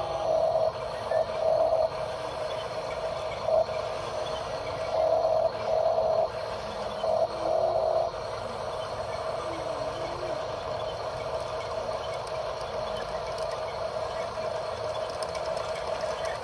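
Small electric motor of a radio-controlled construction model whining steadily, surging louder several times in the first half as it works.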